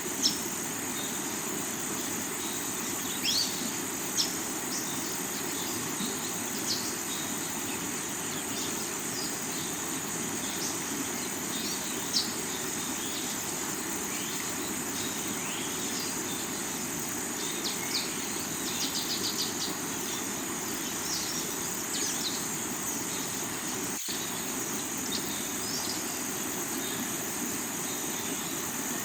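Steady rush of river water flowing over rocks, under a constant high-pitched insect drone. Short bird chirps come and go throughout, with a quick run of chirps a little after the middle.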